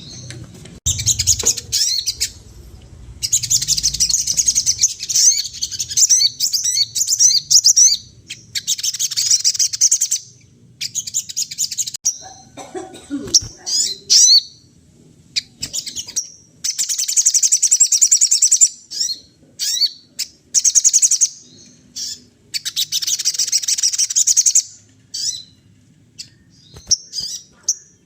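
A sogon songbird singing in full voice: bursts of rapid, high chattering song, each a second to a few seconds long, repeated with short pauses between them.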